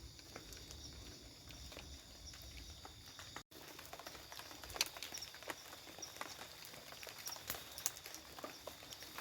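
Forest ambience: insects calling in steady high, pulsing trills, with scattered small clicks and snaps. The sound cuts out for an instant about three and a half seconds in.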